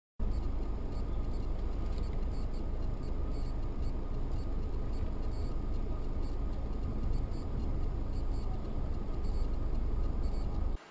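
A car driving: a steady low rumble of engine and road noise. It starts and stops abruptly.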